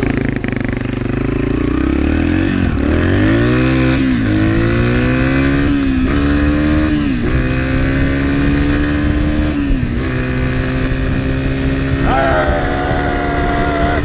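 Dirt bike engine accelerating up through the gears: the pitch climbs, drops sharply at each shift, about four times, then holds steady at speed.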